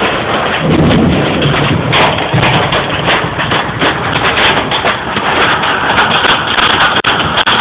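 Hail and heavy rain pelting a car, a dense patter of hard hits, with a low rumble rising about a second in.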